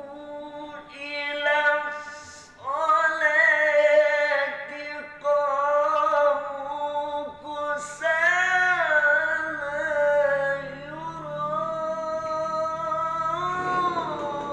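Melodic Quran recitation (tilawah): one voice holds long, ornamented notes that wind up and down in pitch, in several long phrases with brief breaths between.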